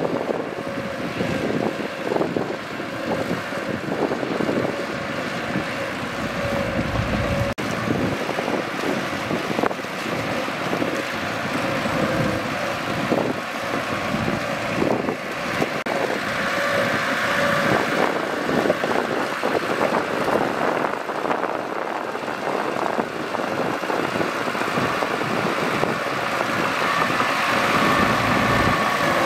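Mitsubishi BD2G bulldozer's diesel engine running steadily under work, with irregular clanks from the machine.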